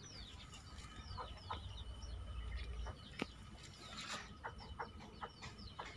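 Faint bird chirps: many short falling calls, with a few light clicks among them.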